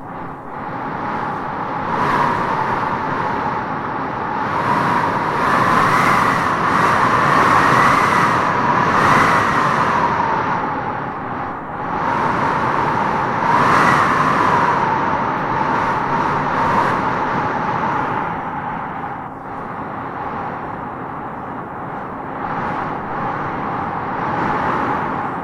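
Strong wind gusting through trees, a steady rush with a howling whistle that swells and rises in pitch with each gust, strongest near the middle.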